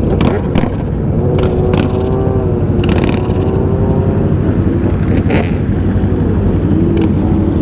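Several sport motorcycle engines running steadily and wavering slightly in pitch as a group of bikes gets ready to pull out, with a few short, sharp cracks scattered through.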